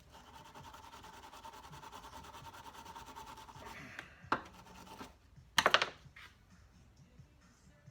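Fast, even rubbing for about three and a half seconds, then a sharp click and, a second or so later, a louder short clatter as small metal parts of a motorcycle seat knob are handled at the bench.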